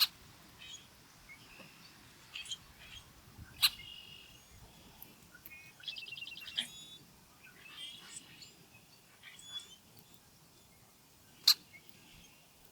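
Songbirds giving scattered short chirps and calls, with a rapid trill of repeated notes about six seconds in. Two sharp clicks, one about a third of the way in and one near the end, stand out as the loudest sounds.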